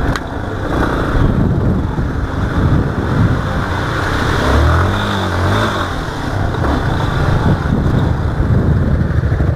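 Motorcycle engine running on a dirt trail amid rough, rumbling noise, with a brief rev that rises and falls about five seconds in.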